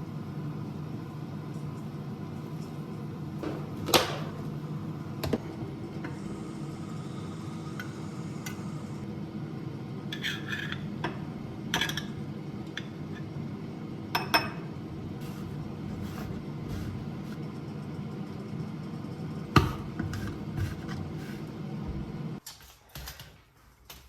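A kitchen appliance hums steadily while dishes and utensils clink and knock now and then. The hum cuts off abruptly about two seconds before the end.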